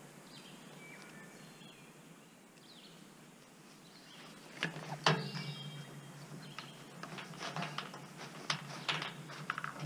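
Birds chirping faintly over quiet outdoor background, joined about halfway through by a series of close clicks, knocks and rustling.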